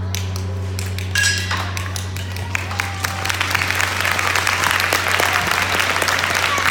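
A sharp metallic strike that rings briefly about a second in, then audience applause that starts up and grows from about three seconds in, over a steady low hum.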